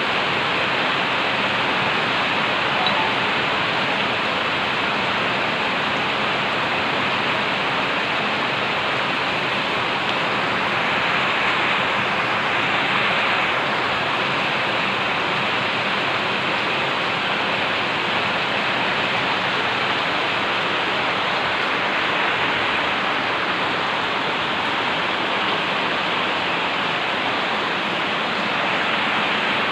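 Heavy rain falling as a steady, even rush.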